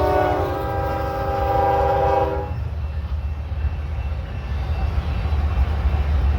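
Locomotive air horn sounding a chord of several steady tones, cutting off about two seconds in, over the low rumble of a passing train that grows a little louder toward the end.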